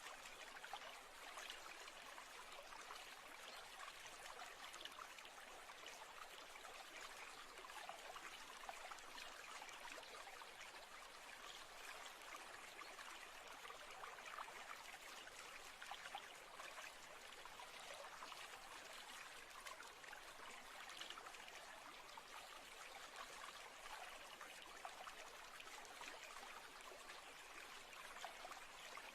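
Faint, steady running water of a babbling stream, the continuous trickling of a natural-sounds ambience.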